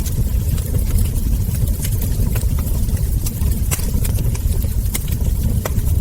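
Wood fire burning in a fireplace: a steady low rumble with scattered sharp crackles and ember pops, roughly one or two a second.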